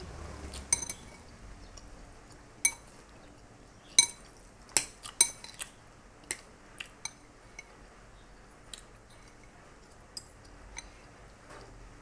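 Cutlery clinking against a dish while eating spaghetti: about a dozen sharp, irregular clinks with a short ring, the loudest cluster a few seconds in.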